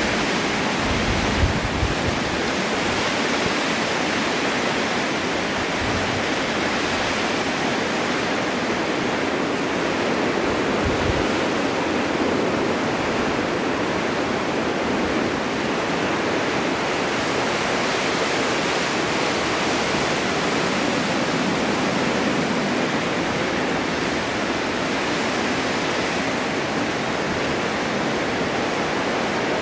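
Steady snowstorm wind blowing as an even, dense hiss, with a couple of brief low rumbles of gust, one near the start and one about a third of the way in.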